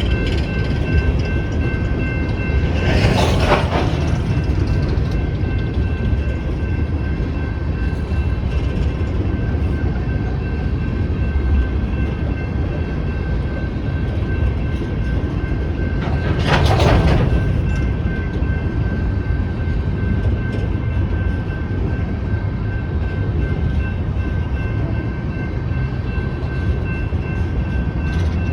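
Freight cars of a BNSF coal train rolling past at a grade crossing: a steady low rumble of wheels on rail, rising into a louder rushing swell about 3 seconds in and again about 17 seconds in. Over it, the crossing's electronic bell rings on as a steady high tone.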